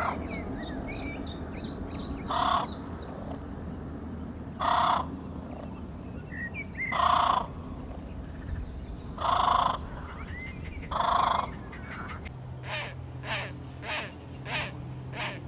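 Bird calls: five loud calls of about half a second each, spaced roughly two seconds apart, with a quick run of high, thin chirps from a smaller bird in the first few seconds. Near the end comes a faster series of shorter calls, about two a second.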